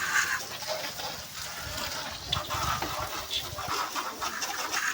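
Water from a hose spraying and splashing on a truck being washed.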